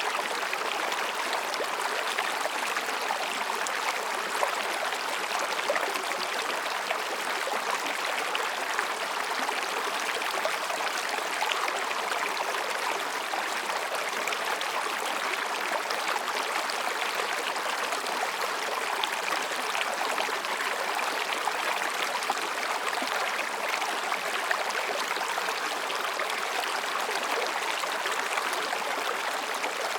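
Mountain stream babbling over and between rocks: a steady, even rush of water.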